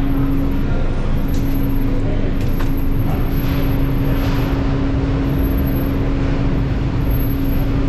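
Engine running at a steady speed: a constant hum over a dense low rumble.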